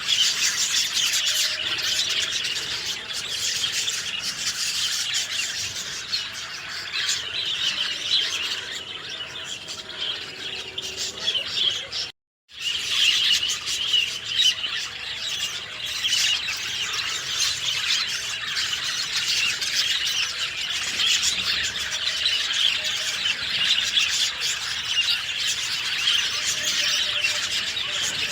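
A dense chorus of many small birds chirping and twittering, high-pitched and continuous. About twelve seconds in it cuts out completely for about half a second, then resumes.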